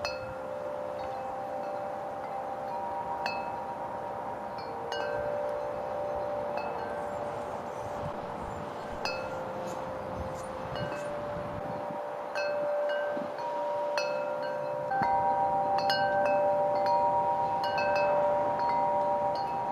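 Wind chimes ringing, struck at irregular moments so that several tones overlap and ring on.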